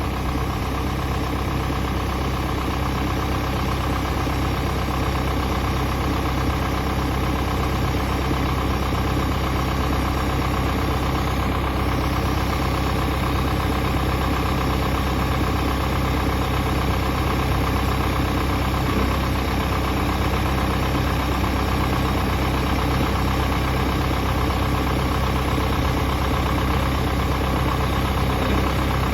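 John Deere 6430 tractor's four-cylinder diesel engine idling steadily.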